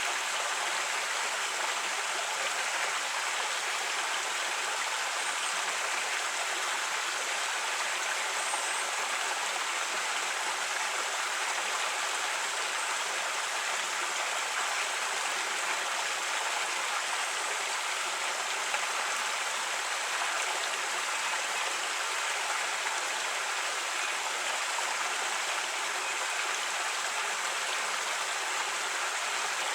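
A creek flowing over rocks: steady, even rushing and babbling water.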